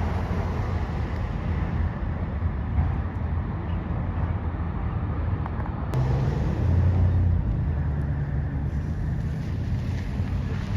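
Autorack freight train rolling past, a steady rumble of wheels on rail that grows louder about six seconds in.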